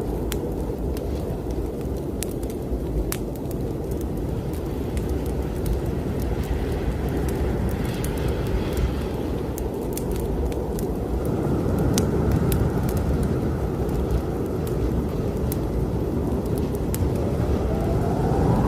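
Strong snowstorm wind blowing steadily, with a faint whistling howl in the second half. Over it come the scattered sharp pops and crackles of a fireplace fire.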